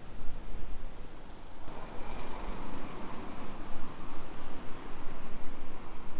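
A vehicle passing by: its noise swells up about two seconds in and fades away, over a low rumble of wind on the microphone.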